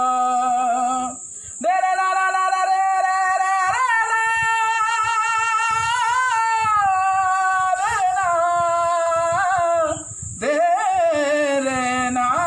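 A solo voice sings long, wordless held notes with a wavering vibrato, a melodic passage between the verses of a Hindi song to Lord Shiva. It breaks briefly for breath about a second in and again about ten seconds in.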